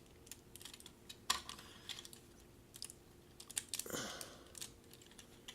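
Scattered light plastic clicks and taps from a Transformers Voyager-class Sandstorm figure's joints being rotated and snapped into place during transformation. The sharpest click comes about a second in, with a few more near the middle and later.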